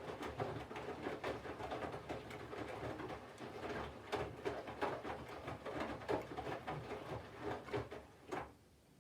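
Candy front-loading washing machine tumbling wet laundry in its drum, a churning sound of soft thuds and swishes, during the water-heating phase of the wash. The drum stops near the end and the sound cuts off.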